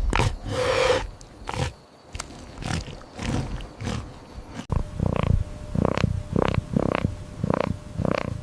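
Animal calls: scattered growls, then after an abrupt change near the middle a steady run of grunts, about two a second.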